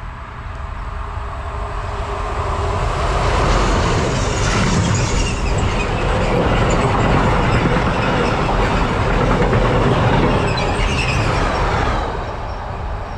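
A train passing close by, its wheels rolling loudly over the rails. The sound builds over the first three seconds, stays loud for about seven seconds, then falls away near the end.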